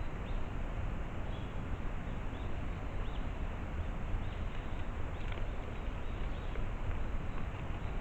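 Small birds giving short, high chirps every second or so over a steady background hiss and rumble.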